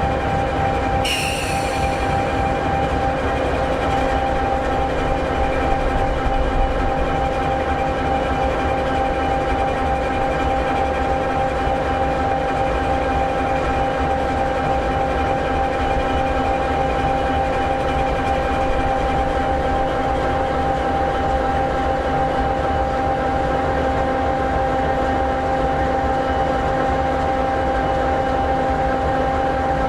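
EMD 16-710G3B sixteen-cylinder two-stroke diesel of an SD60E locomotive idling steadily, with constant whining tones over a low rumble. A brief high hiss sounds about a second in.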